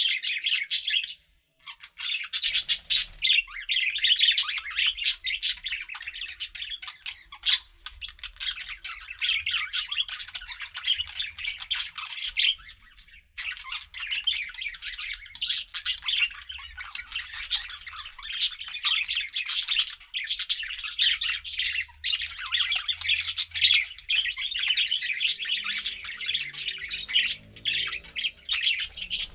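Several pet budgerigars chirping and chattering in a dense, rapid stream of short squawks and warbles, with a brief pause a little over a second in and a short lull about halfway through.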